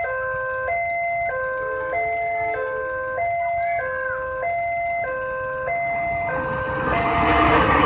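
Railway level-crossing warning alarm sounding, two tones alternating about every two-thirds of a second. Near the end the rumble of an approaching train rises under it.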